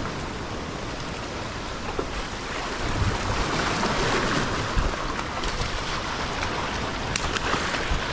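Sea surf washing steadily, swelling louder a few seconds in, with a few sharp clicks near the end.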